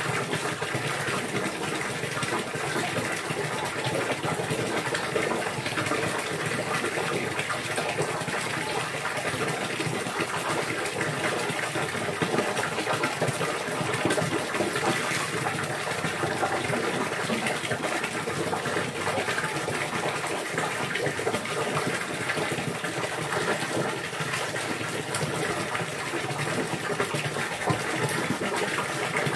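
Steady running water, an even splashing hiss that neither starts nor stops.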